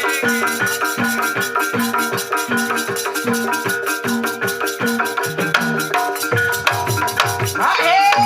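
Banyumasan tayub gamelan music (gending) playing instrumentally: sustained metallophone tones over a steady drum beat. A singer's voice comes in near the end.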